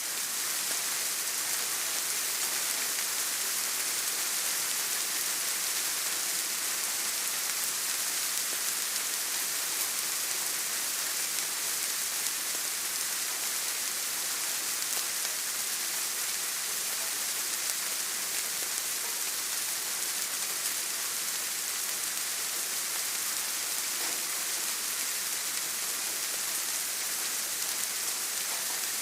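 Steady rain: a dense, even hiss of many drops, with no single drop standing out.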